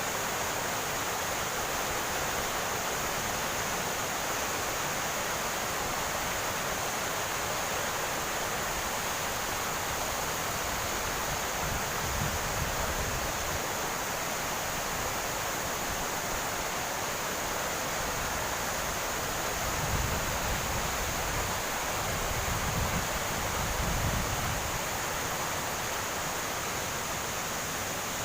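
Steady rush of a tall waterfall pouring down, with a few low rumbles about halfway through and again near the end.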